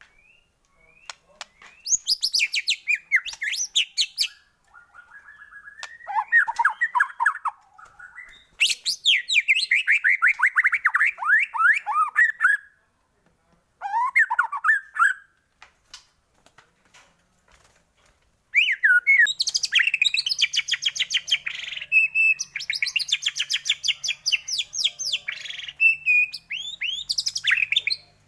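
White-rumped shama singing: bursts of varied, rapid trills, whistled glides and rattling notes lasting a few seconds each, with short pauses between, and the longest, densest burst near the end.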